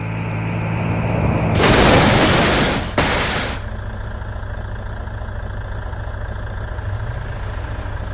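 Truck engine idling steadily, with a loud hiss of released air lasting about two seconds, a little under two seconds in.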